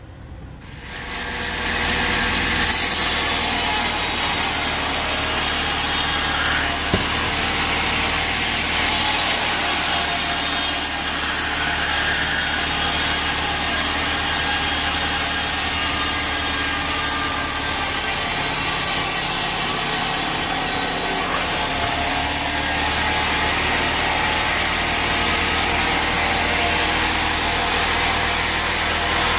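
Sawmill bandsaw cutting through a teak log: a steady cutting noise over the low hum of the machine, starting within the first second. The cut gets brighter and higher from about 3 to 6 seconds and again from about 9 to 21 seconds, with a single sharp click about 7 seconds in.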